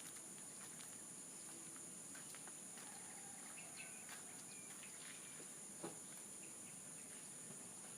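Quiet outdoor nature ambience: a steady high-pitched insect drone, with a few faint bird chirps and scattered soft clicks, one a little louder about six seconds in.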